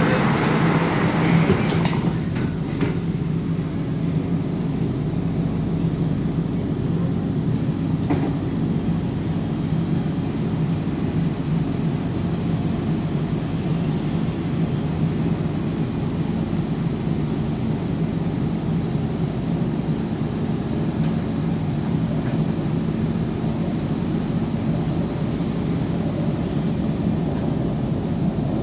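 MTR K-Train metro train running, heard from inside the car: a steady low rumble of wheels on rail. About a third of the way in a thin high whine rises, holds steady, and dies away near the end.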